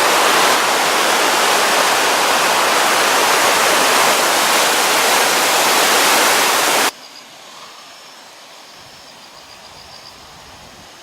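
Loud, steady rushing of a river or stream, which cuts off abruptly about seven seconds in. It gives way to a much quieter background with faint, high insect chirping.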